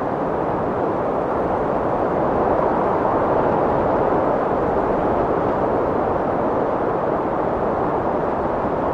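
Strong wind blowing as a steady rushing noise, swelling a little a few seconds in and easing again.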